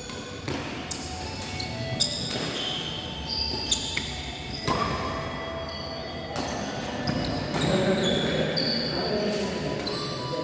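Badminton rally on an indoor court: sharp racket-on-shuttlecock hits every second or two, with shoes squeaking on the court floor in short high squeals.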